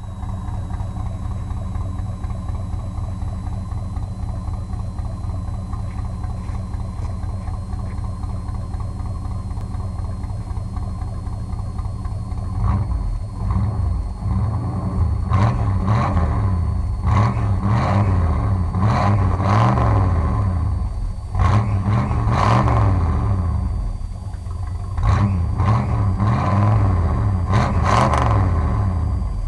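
1966 Plymouth VIP's 318 V8 idling steadily, then revved in a series of short blips from about halfway through.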